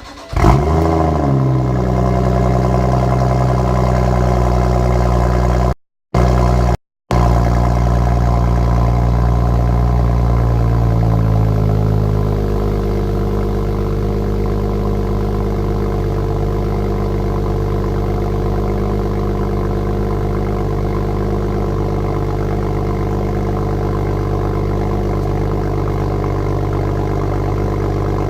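BMW M135i exhaust with HJS downpipe and aftermarket Tuningwerk rear silencer on a cold start: the engine catches with a flare of revs, holds a raised cold-start idle, then drops to a lower steady idle about twelve seconds in. The sound cuts out briefly twice early on.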